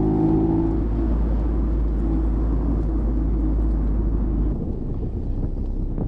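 Mazda MX-5's 1.5-litre four-cylinder engine at low revs; its note fades within the first second into a steady low rumble, which stops suddenly about four and a half seconds in.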